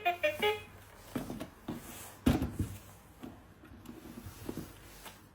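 Small objects being handled: scattered light knocks and rubbing, with one louder knock a little over two seconds in.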